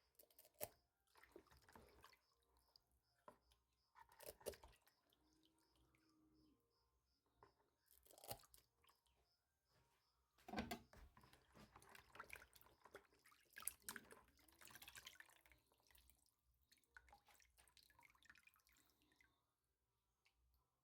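Faint, scattered sounds of hands working with water: drips, small splashes and scraping, in short bursts with pauses between.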